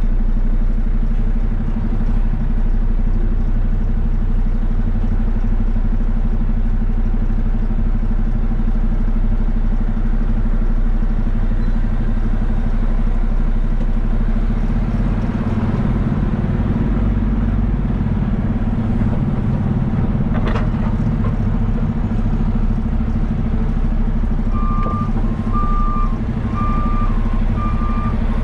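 Heavy diesel engine running steadily at a dirt pit, with one sharp click about two-thirds of the way through. Near the end a machine's reversing alarm starts beeping a little more than once a second.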